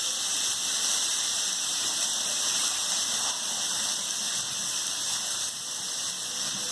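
Chicken frying in hot oil in a pan, a steady loud sizzle.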